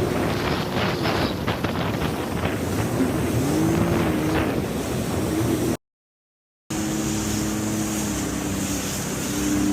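Jet ski engine running at speed, its pitch dipping and climbing again about four seconds in, with water splashing against the hull and wind on the microphone. The sound drops out completely for about a second past the middle, then the engine runs steadily again.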